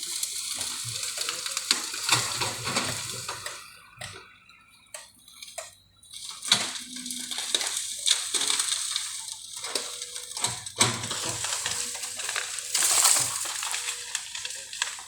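Bamboo crackling, snapping and rustling as heavy equipment pushes it over and crushes it. The noise comes in uneven waves and dies down briefly for a couple of seconds about four seconds in.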